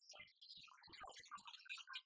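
Faint, irregular clicks, taps and rustling of small objects being handled.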